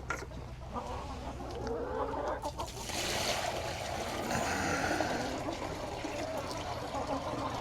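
A flock of chickens clucking and murmuring steadily.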